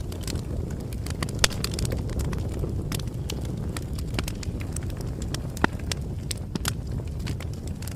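Bonfire crackling: irregular sharp snaps and pops over a steady low rumble of burning wood, with louder snaps about a second and a half in and near six seconds.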